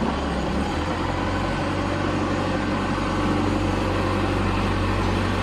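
Machinery running steadily with a low, even hum and no change in pitch.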